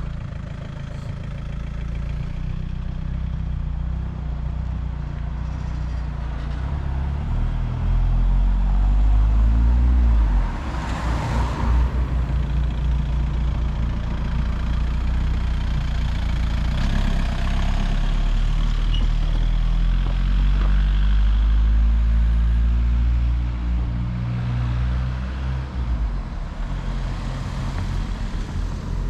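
Car engine and road noise heard from inside the moving car. The engine's pitch rises and falls as it changes speed and gear, loudest about eight to ten seconds in, with a short rushing swell just after.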